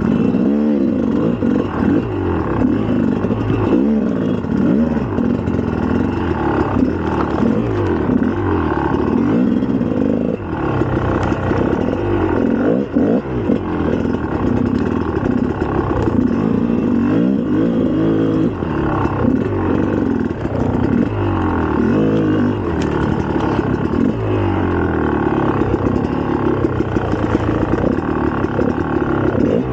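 2004 GasGas EC300 300 cc two-stroke dirt bike engine being ridden, its revs rising and falling over and over as the throttle is worked.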